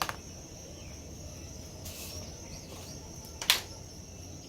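A steady high-pitched insect trill in the background, with a light tap at the start and one sharp tap about three and a half seconds in, the loudest sound.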